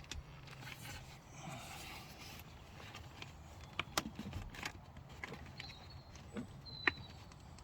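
Faint handling noise of wiring being worked: rustling, with a few sharp plastic clicks, the loudest near the end, as the tailgate switch's connectors are plugged into the car's wiring loom.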